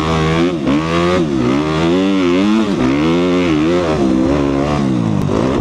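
2014 Suzuki RM-Z250's single-cylinder four-stroke dirt bike engine under hard riding, its revs rising and falling over and over as the throttle is rolled on and off.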